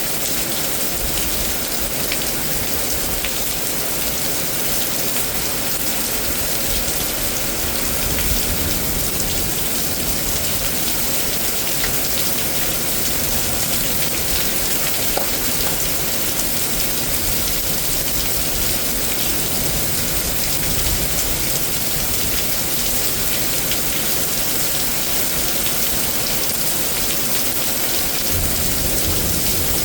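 Heavy rain from a severe thunderstorm, falling as a loud, steady downpour with no let-up.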